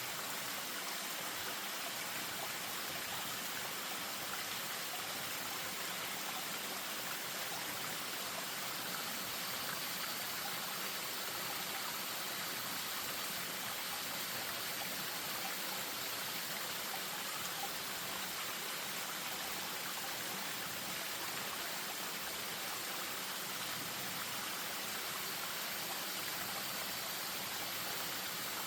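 Spring-fed stream running over a small waterfall: a steady, even rush of water.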